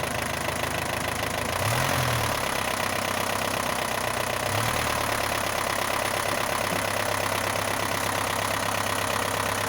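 Isuzu NPR diesel engine running cold after 11 years laid up, on stale fuel. It rises briefly in speed about two seconds in and again around four and a half seconds, then settles to a steady idle.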